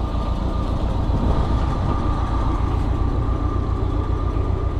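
Forklift engine running steadily with a low, even pulse while the forks are lowered, a steady high whine over it.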